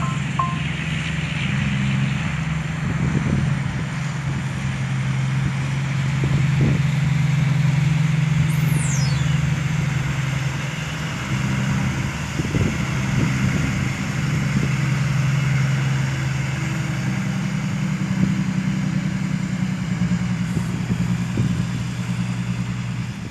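Dump truck's diesel engine running steadily at a low, even pitch, its level and pitch shifting slightly now and then.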